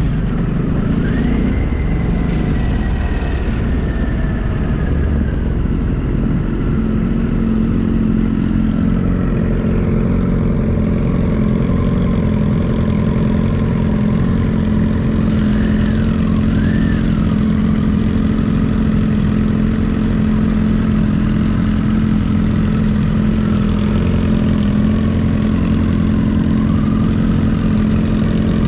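Motorcycle engine running while riding, over a loud low rumble. Its pitch rises about a second in, eases down over the next few seconds, then holds steady.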